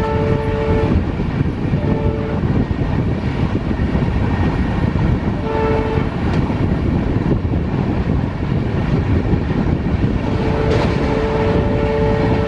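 A locomotive's multi-tone horn sounds in several blasts, two short ones in the middle and a long one near the end, over the steady rumble of a train running at speed.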